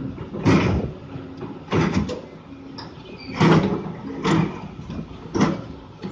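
Doosan DX200A hydraulic excavator's diesel engine running under load, with about five short, loud, irregular surges of scraping and rumbling as the bucket works padas (hard soil and soft rock) while loading a truck.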